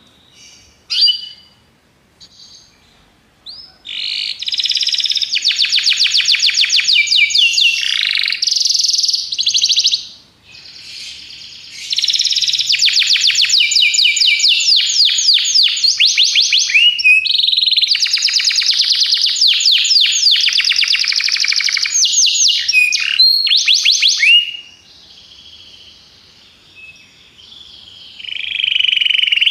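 Canary singing a tutor song: long runs of very fast trills and rolls, broken by short pauses about ten seconds in and again near the end.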